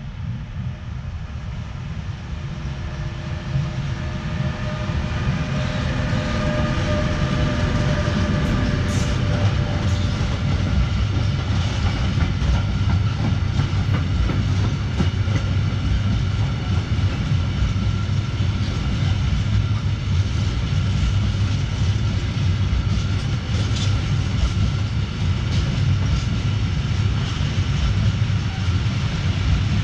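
Freight train of rail tank wagons hauled by an electric locomotive passing close by: a steady, loud rumble of steel wheels on the rails with clickety-clack, building over the first several seconds as the train arrives. A few steady tones sound while it approaches, and short clicks stand out now and then.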